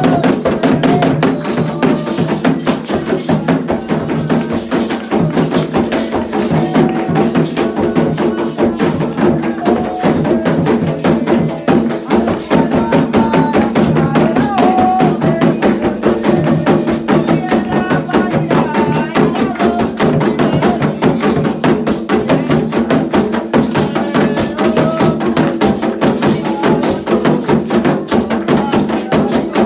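Candomblé ceremonial music: drums and a struck wooden or metal percussion part beaten in a fast, steady rhythm under voices singing.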